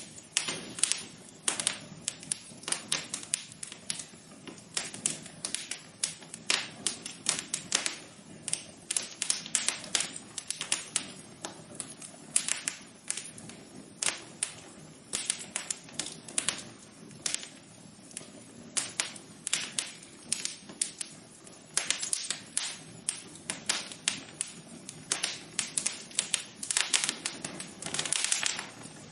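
Wood fire crackling in a fireplace: irregular sharp pops and snaps, several a second, over a low hiss, with a denser cluster of crackles near the end.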